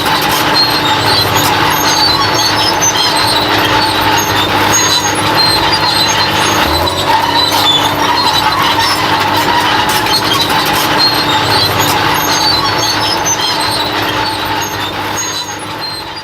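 Bulldozer working, its diesel engine running steadily under many short, high-pitched squeaks from the steel tracks. The sound fades out near the end.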